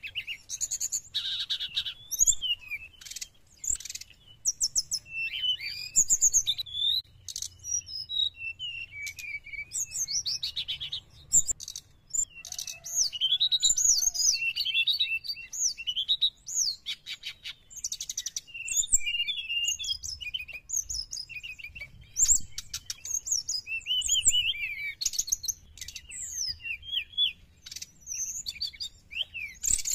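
Brown-chested jungle flycatcher singing continuously: a varied, fast song of short gliding whistled notes mixed with rapid trills.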